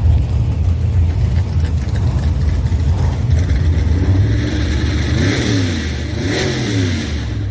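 Car engines at a drag strip: a steady low engine rumble, with engines revving up and down twice in the second half over a rising hiss.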